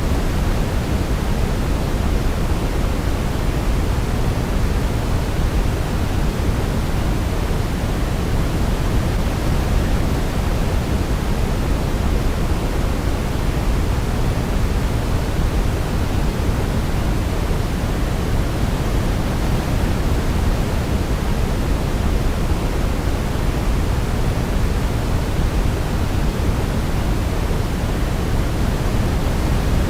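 Steady sleep-aid noise: an even, unchanging rushing hiss, heavier in the bass than in the treble, like pink noise.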